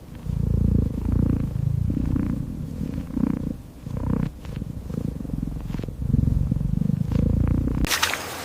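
An animal making a low, pulsing rumble in repeated stretches of about a second, ending abruptly near the end, where a splashing noise comes in.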